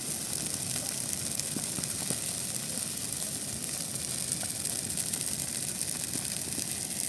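Big bonfire of discarded Christmas trees burning: a steady hiss with many small crackles.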